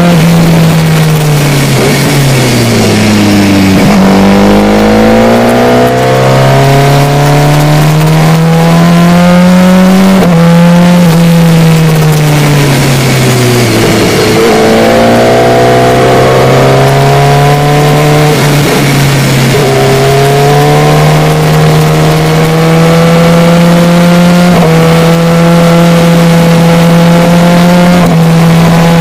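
Sport motorcycle engine, heard from on board, pulling through the gears on a twisty road. The revs drop away twice, about three seconds in and again around thirteen seconds, then climb again with steps in pitch at the gear changes. Wind rushes steadily over the microphone.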